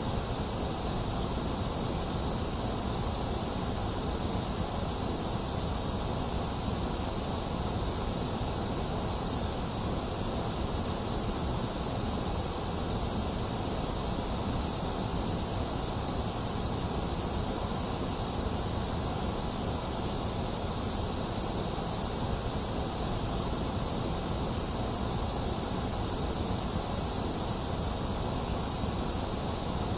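Box fan running steadily, mixed with falling rain: an even, unchanging hiss with no thunder.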